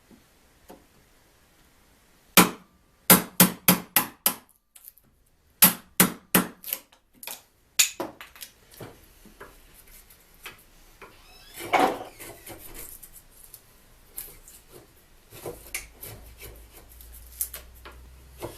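Hammer blows on wood in quick runs of about five or six sharp strikes, followed by lighter scattered knocks and a short clatter.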